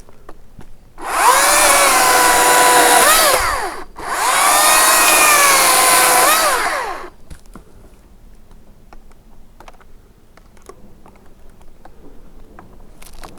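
Makita 40V cordless top-handle chainsaw run in two bursts of about three seconds each, its motor whine sagging in pitch mid-run and rising sharply just before each stop, as it cuts dead branches. Light scattered clicks follow.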